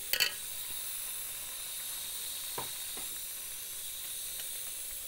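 Chicken karahi frying in oil in a large aluminium pot, sizzling steadily. A couple of sharp clicks sound just after the start and two light knocks follow a few seconds later.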